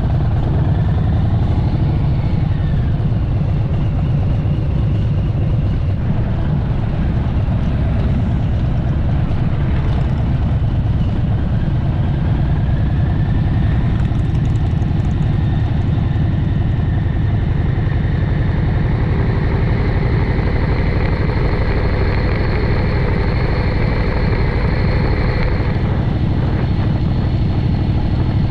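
Motor vehicle running steadily, a continuous low engine and road rumble. A faint high whine comes in around the middle and holds.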